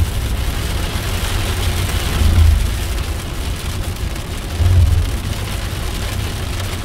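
Car driving through a thunderstorm, heard from inside the cabin: a steady low rumble of road and engine noise under a hiss of rain, with the rumble swelling briefly twice.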